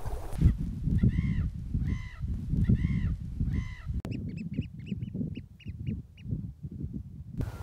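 Birds calling over heavy wind rumble on the microphone: four drawn-out calls a little under a second apart. After an abrupt cut comes a quick run of short, high, piping notes, several a second.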